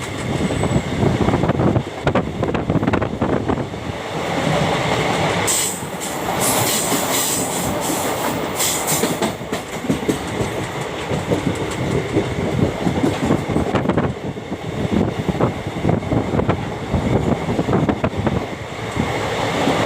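Train running along the track, its wheels clicking rapidly over the rail joints, with a hissing rush that rises for a few seconds about a third of the way in.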